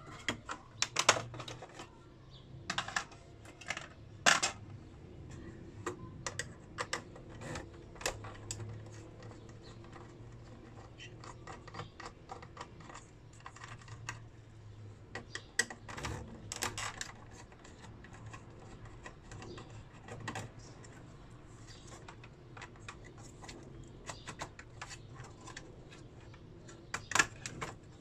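Irregular clicks, taps and small metallic clatter of hand tools, screws and plastic parts being handled while a burnt-out inverter drive is dismantled, with louder bunches of clicks a few times.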